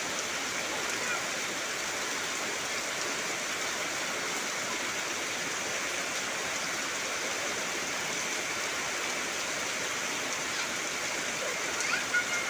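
Heavy rain falling steadily on trees: an even, unbroken hiss.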